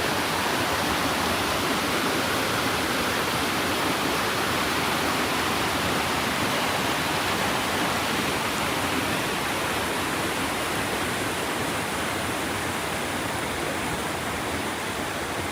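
Waterfall rushing steadily: a constant roar of falling water with no breaks, easing a little in the second half.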